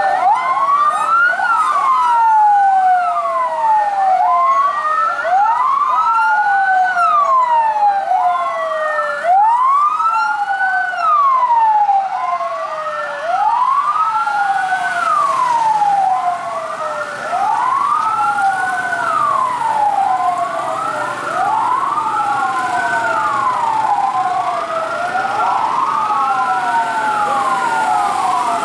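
Several fire truck sirens wailing at once, each rising and falling in pitch about every two seconds, their cycles overlapping out of step.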